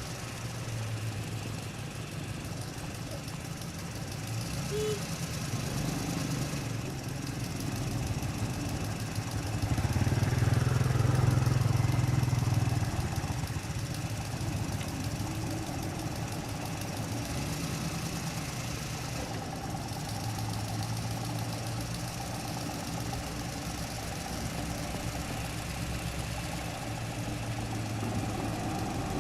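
Mitsubishi truck's diesel engine running steadily, growing louder for a few seconds between about ten and thirteen seconds in before settling back.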